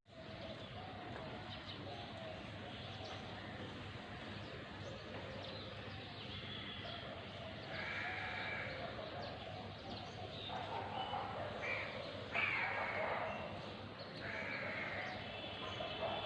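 A few short animal calls, each about a second long, about eight seconds in, twice between eleven and thirteen seconds, and again near fourteen and a half seconds, over a steady outdoor background hum.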